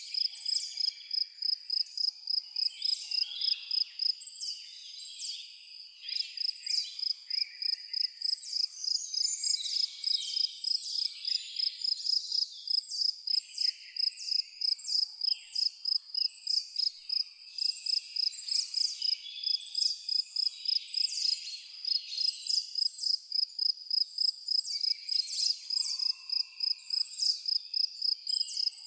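An insect, cricket-like, chirping steadily at a high pitch, about two to three chirps a second, with several birds calling and twittering over it.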